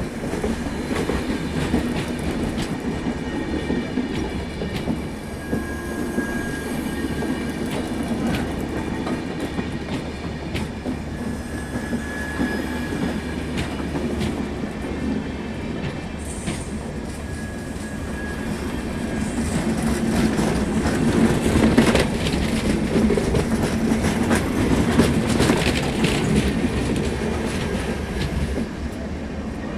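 Express passenger train running on the track: a steady rumble of wheels on rails with clatter over the rail joints, growing louder about two-thirds of the way through.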